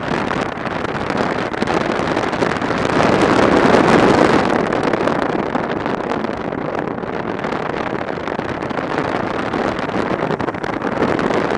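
Wind rushing over the camera microphone on a moving motorbike, with road noise mixed in; it swells for a moment about three to four seconds in.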